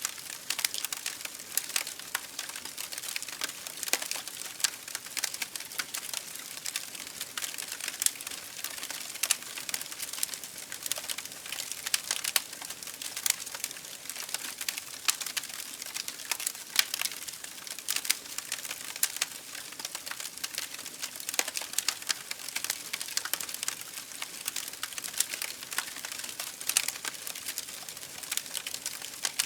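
Campfire burning, wood crackling with many sharp, irregular pops over a steady hiss of flame.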